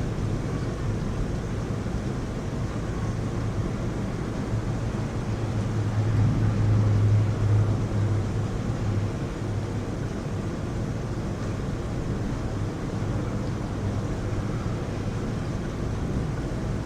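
Heavy rain falling steadily, with a low rumble that swells and fades about six to nine seconds in.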